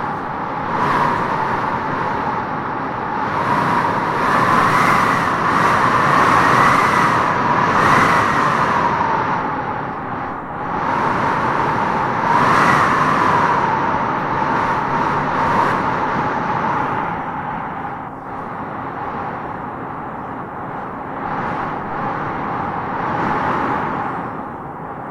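Strong wind howling in gusts through tropical trees: a steady rushing noise with a whistling howl that rises and falls in pitch. It swells and eases several times, with the strongest gusts in the first half.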